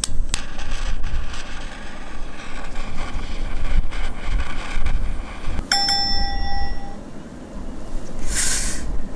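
A steady rushing roar of a flame being held to paper rolls to light them, opening with a sharp click. About six seconds in comes a short metallic ring, and the rushing drops away shortly after.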